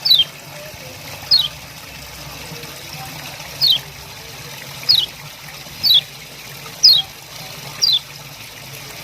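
Common iora giving sharp 'ciak' calls, each a quick downward chirp, about seven at irregular intervals, over a steady trickle of running water.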